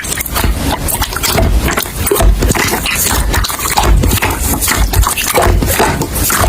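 Construction site noise: loud, continuous clattering and scraping with frequent irregular knocks.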